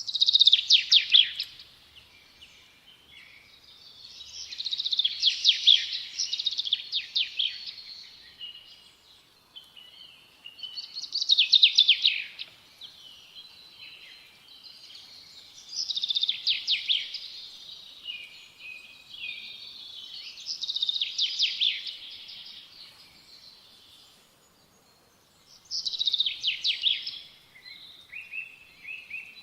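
A small songbird singing the same short song again and again, about every five seconds: a quick run of rapid notes falling in pitch, with fainter chirps in between.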